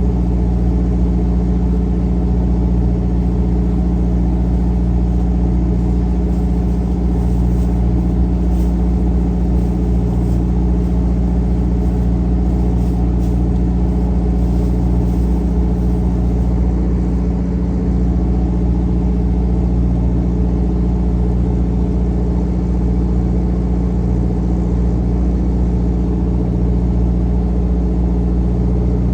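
A trawler's inboard diesel engine running steadily at constant speed, a deep even drone with no change in pitch.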